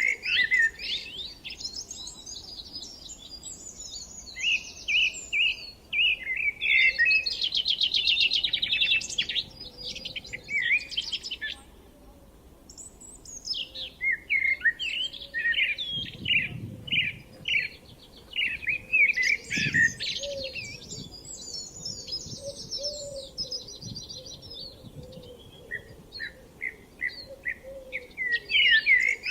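Songbirds singing: quick chirps and rapid trilled phrases from several birds, overlapping, with a short lull about twelve seconds in.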